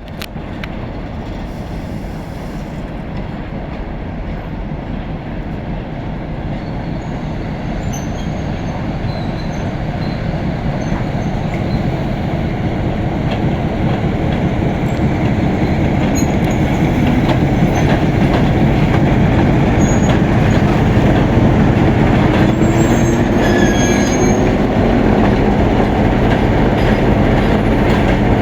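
Passenger train hauled by an EP2K electric locomotive rolling in on arrival, a steady rumble of wheels on rail that grows gradually louder as it approaches. A few faint high wheel squeaks come in the second half.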